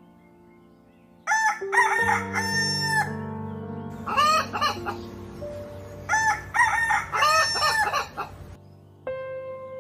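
Rooster crowing three times, over a bed of steady background music.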